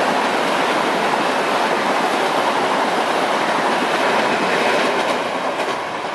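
Electric commuter train running past on the track: a loud, steady rush of wheels on rail that eases off a little near the end as the last cars go by.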